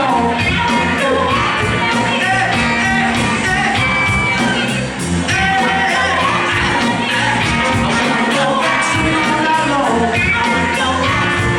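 Live band playing a song with a lead singer over a steady driving beat, amplified in a large room.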